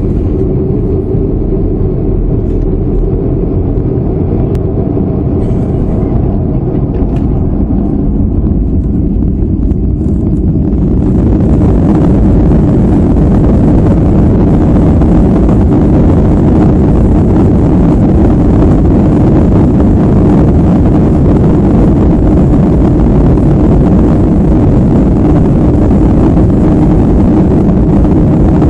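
Boeing 737-400's CFM56 turbofan engines running with a steady low rumble, then about ten seconds in spooling up: the noise grows louder and fuller and holds steady, as for the takeoff roll.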